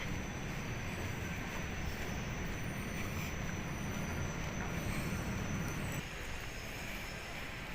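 Steady background rumble and hiss with no clear single event; the low rumble eases suddenly about six seconds in.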